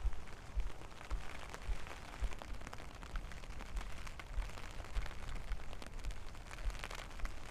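Steady rain pattering, with scattered sharp drops, and low thuds about twice a second from the footsteps of someone walking in the rain.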